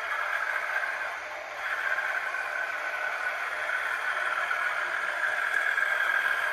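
DCC sound-fitted model diesel locomotive running, its engine sound played through a small onboard speaker; the level dips briefly about one and a half seconds in, then picks up again.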